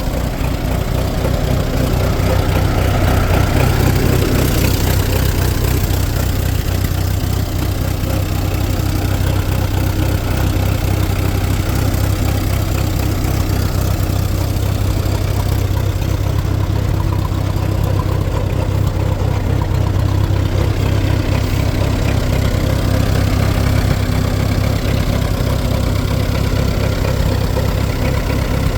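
Old Fordson engine, just freed from seizure, running steadily at idle with an even, rapid firing beat.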